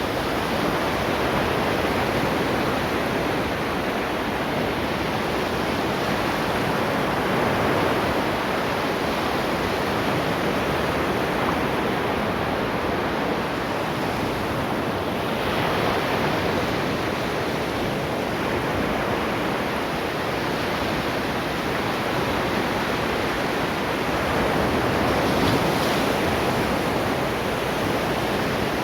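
Ocean waves washing onto a shore in a steady rush of surf, swelling now and then as a wave breaks, with a brighter wash about halfway through and again near the end.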